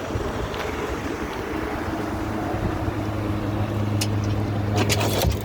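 Sailboat's engine running steadily under way upstream, with wind on the microphone and water noise; the engine hum grows stronger about halfway through, and a few sharp clicks come near the end.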